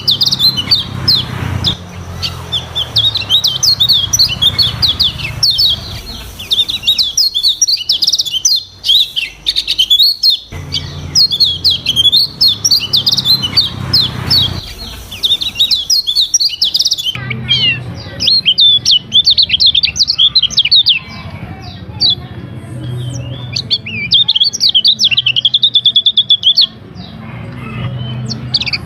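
Kecial kuning (a white-eye) singing a fast, varied twittering song in rapid bursts with short pauses, over a low background hum.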